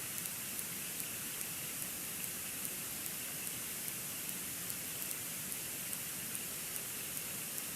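Steady hiss with faint, light ticks about two to three times a second, picked up by the nest cam's outdoor microphone in falling snow.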